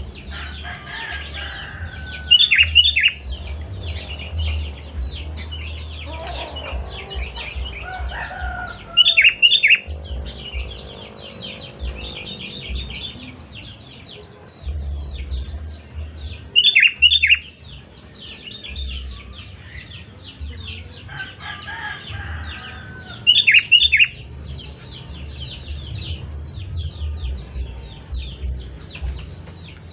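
Sooty-headed bulbul (kutilang) giving loud calls: short bursts of two or three high notes about every seven seconds, over steady twittering of birds.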